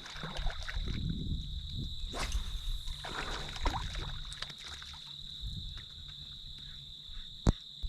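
Steady high-pitched drone of insects, crickets or similar, in a marsh, over faint knocks and water sounds from a kayak. A single sharp click comes near the end.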